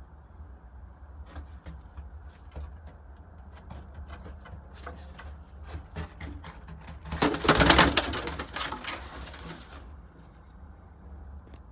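Baghdadi red pigeons cooing, with scattered light clicks and a loud rustling burst about seven seconds in that lasts some two seconds, over a steady low hum.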